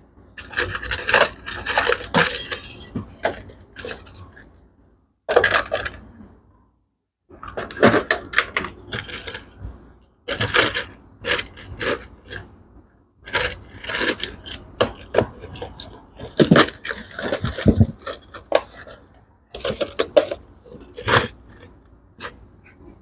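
Small loose metal parts clinking and rattling against each other and a hard surface in quick, irregular knocks, with a few short pauses, as they are picked through one by one.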